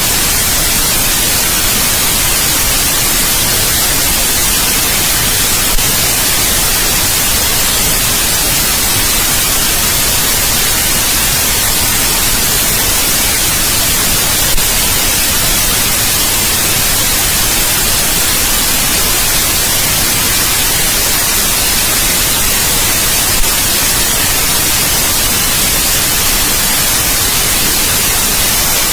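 Steady white noise, an even hiss with no pitch or rhythm, heavier in the treble. Three brief faint clicks come about nine seconds apart.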